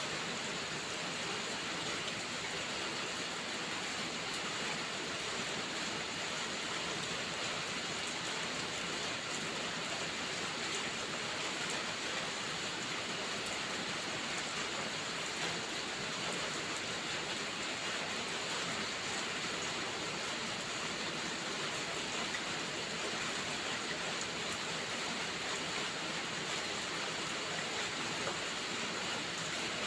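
Steady heavy rain: an even, unbroken hiss, with a few faint sharp ticks here and there.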